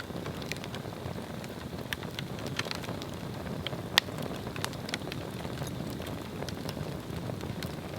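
Swedish torch log fire burning with a steady low rush of flame, crackling and popping irregularly, with one sharp crack about four seconds in.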